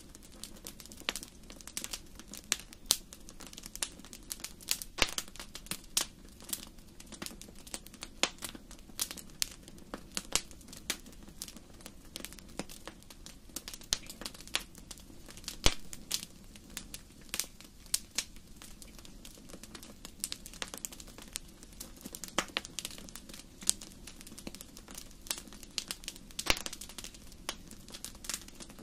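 Wood fire burning in a fireplace, crackling with many irregular sharp pops over a steady low rush of the flames; one louder pop about halfway through.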